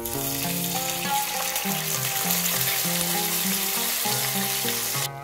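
Hot oil with whole spices sizzling in a non-stick frying pan as onion paste is poured in, over background music. The sizzle cuts off suddenly near the end.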